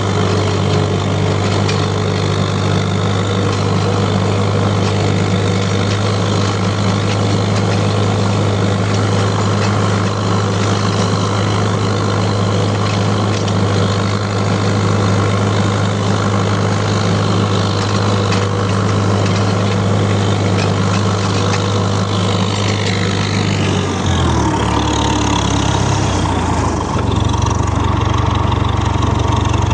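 Tractor engine running steadily at a low, even hum; about three-quarters of the way through, its note drops and shifts in steps.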